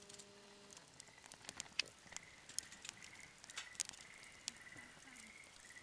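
Wood campfire crackling faintly with scattered sharp pops. From about a second in, a faint high trill repeats in short pulses behind it.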